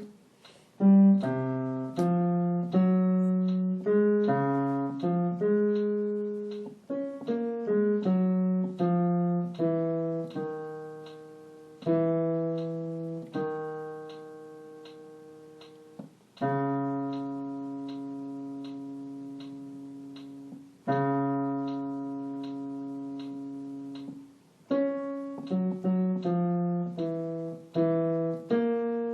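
Piano playing the bass voice part of a song, one note at a time in a low register, each note struck and left to fade. About halfway through it holds two long notes, then picks up a quicker run of notes near the end.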